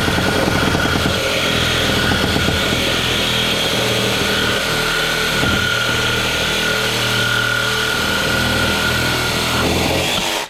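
Reciprocating saw with a Diablo thick-metal blade cutting through metal, running steadily with a high whine, then stopping suddenly at the very end as the piece comes free.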